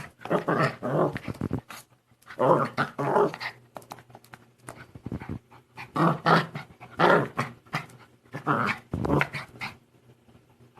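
A young dog growling in repeated bursts of about a second each, with short pauses between, fading near the end.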